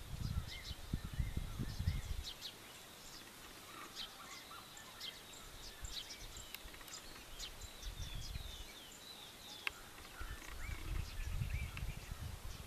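Several wild birds chirping and calling, short high chirps and trills scattered throughout. A low rumble on the microphone comes in the first couple of seconds and again near the end.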